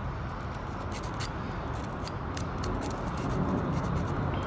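Light, irregular scraping and clicking of a small hand tool on the weed eater's rusted ignition contacts as they are cleaned, over a steady background noise.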